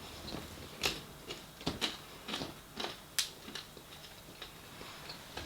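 Close-miked eating of a samosa: irregular wet mouth clicks and soft chewing sounds. The pastry has gone soft, so there is no crunch.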